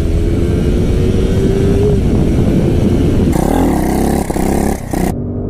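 Motorcycle engine running under way, its pitch climbing gently, under a wide rushing noise; the sound changes abruptly about three and a half seconds in and again near the end.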